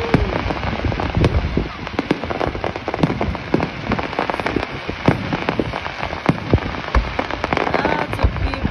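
Fireworks display: a dense, continuous crackle of many small rapid pops from crackling stars, sounding like heavy rain, with deeper booms of shells bursting scattered through.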